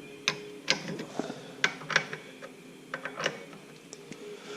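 Light metal clicks and clinks, about two a second and unevenly spaced: hand tools and metal parts being handled during work on a Ford 9-inch differential third member.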